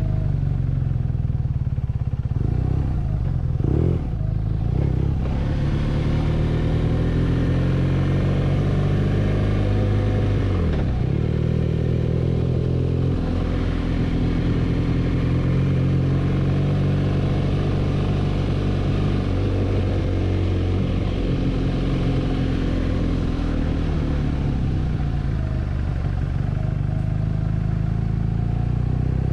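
BMW R nineT's air/oil-cooled boxer twin running under way on a ride, its pitch rising and falling with the throttle and gear changes, with a drop and quick climb about ten seconds in. Road and wind noise hiss underneath.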